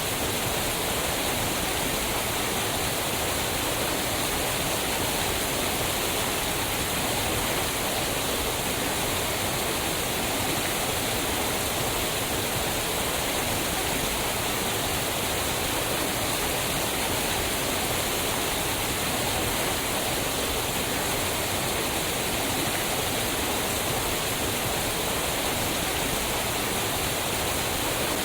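Waterfall, fast-moving water pouring over rocks in a steady, unbroken rush.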